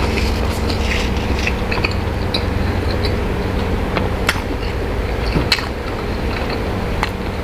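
A person chewing a mouthful of black pepper mushroom chicken burger, with small wet smacks and clicks scattered through it, over a steady low hum.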